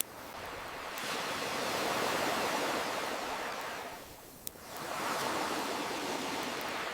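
Ocean waves washing in, one swell building and falling away, then another rising after a brief lull. A single sharp campfire pop cracks out in the lull, about two-thirds of the way through.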